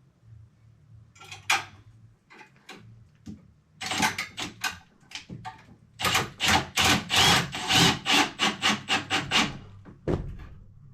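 Back-and-forth scraping strokes of a hand tool working on the plumbing, likely cutting out the old section of pipe. A few scattered strokes give way to a steady run of about four strokes a second, and a low bump comes near the end.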